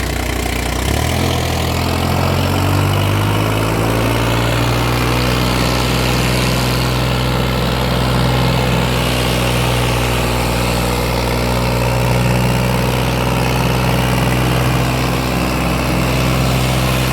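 New Holland 480 tractor's three-cylinder diesel engine running hard and steadily during a performance round. Its revs step up about a second in, climb over the next few seconds, then hold at a steady pitch.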